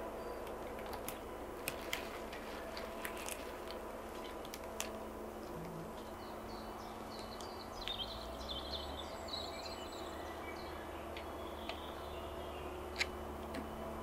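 A small songbird sings a quick run of high, repeated notes for a few seconds, about halfway through, over a steady low hum and scattered light clicks.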